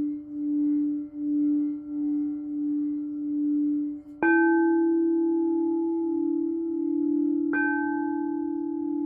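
Singing bowls ringing: a low sustained tone that wavers and pulses in loudness, then a slightly higher bowl struck twice, about four and seven and a half seconds in, each strike opening with a bright attack and leaving a long ringing tone with higher overtones.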